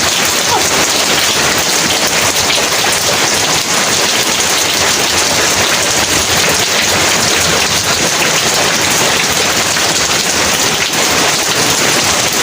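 Heavy rain falling, a steady dense hiss of drops on surfaces.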